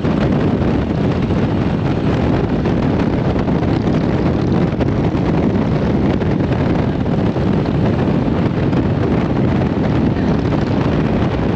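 Steady wind rush buffeting the camera microphone on a motorcycle riding at highway speed, with the bike's engine running underneath.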